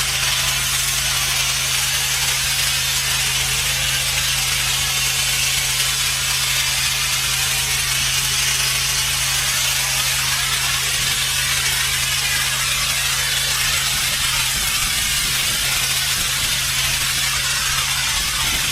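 Pressure washer running continuously: a steady engine hum under the loud, even hiss of high-pressure water spraying onto pavement.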